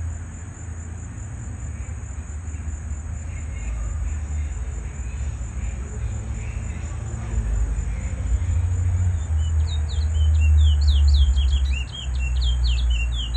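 A bird singing a rapid string of short, sharply falling chirps, several a second, starting about two-thirds of the way in. Under it is a steady high insect whine and a low rumble.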